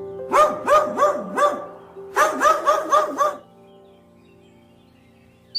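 A dog barking in two quick runs of short barks, about four and then five, over faint background music.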